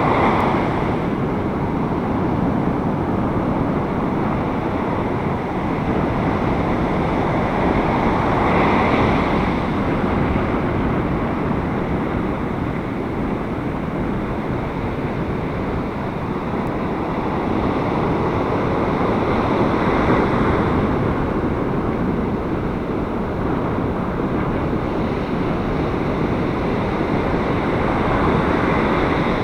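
Surf breaking on a beach in gale-force wind, with heavy wind buffeting on the microphone; the roar swells and eases every several seconds as waves break.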